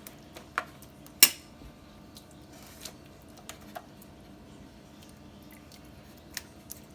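Scattered light clicks and taps against a baking tray while a lasagna is being layered, with one sharp click about a second in.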